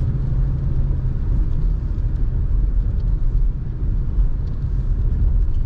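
Car driving on a mountain road, heard from inside the cabin: a steady low rumble of engine and tyres.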